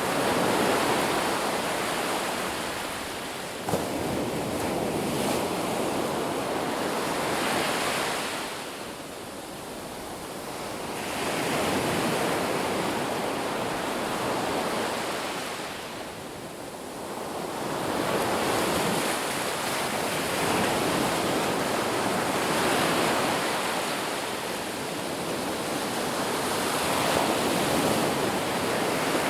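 Ocean waves breaking and washing on a beach, a steady rush of surf that swells and ebbs every several seconds, with a short click about four seconds in.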